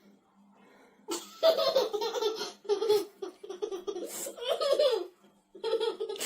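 A person laughing hard in repeated fits, starting about a second in, with short breaks between bursts.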